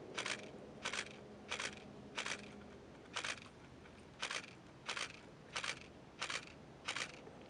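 Camera shutter firing shot after shot, about ten sharp clicks at roughly one and a half a second.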